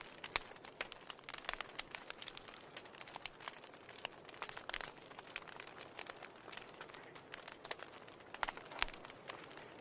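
Fire burning in a fireplace, crackling with a steady run of irregular small pops and snaps over a faint hiss. A few louder pops stand out, one about half a second in and a cluster near the end.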